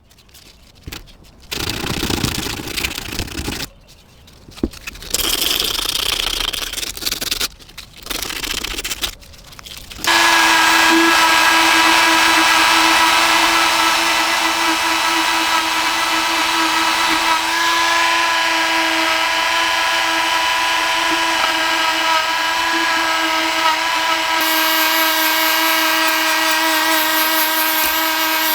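Several short bursts of working noise, then about ten seconds in an electric power tool starts running steadily at a constant pitch, typical of rust and paint being taken off in a tool restoration.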